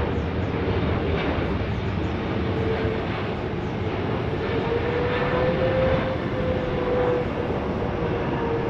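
Jet airliner engines running, a steady wash of engine noise with a droning tone that wavers slightly in pitch.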